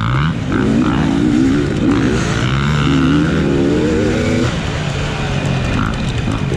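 Off-road motorcycle engine in the 250 class, heard up close from the rider's point of view, revving up and down as the throttle opens and closes through the gears, with a drop in pitch about four and a half seconds in.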